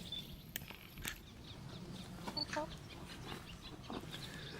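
Birds calling: scattered short high chirps, with a brief lower call about halfway through and a few sharp clicks.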